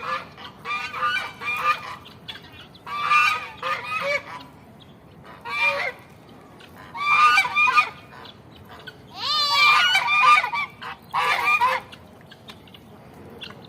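Geese honking in repeated bouts of several calls each, with short pauses between; the loudest bout comes about two-thirds of the way through.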